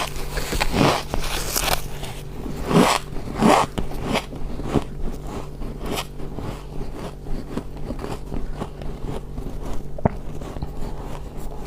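A person biting into and chewing deep-freezer ice. There are several loud crunches in the first few seconds, then quieter, steady crackling as the ice is chewed, and one sharp crack near the end.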